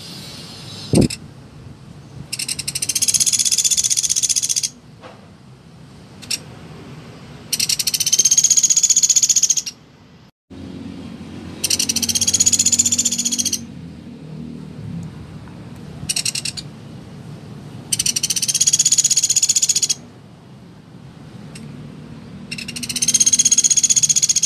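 Pelatuk beras, a small woodpecker, calling in high, rapid rattling trills about two seconds long, repeated about every five seconds, with a few short single notes in between.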